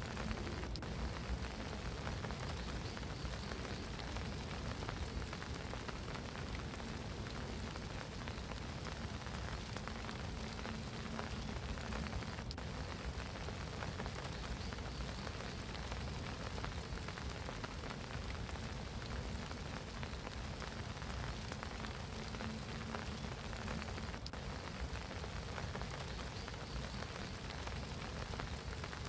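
Steady spring rain falling on a pond, countless small drops hitting the water evenly throughout.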